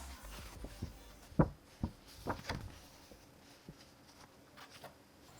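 Scattered light knocks and clicks, about a dozen, the loudest about one and a half seconds in.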